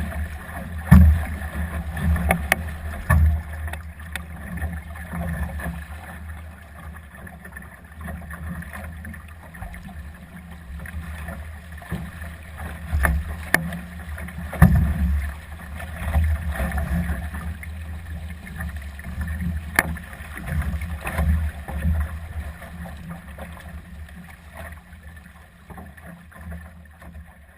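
Gusty wind buffeting the microphone aboard a Solo sailing dinghy, a low uneven rumble that swells and fades with the gusts, with water noise from the hull and scattered sharp knocks from the boat, the loudest about a second in.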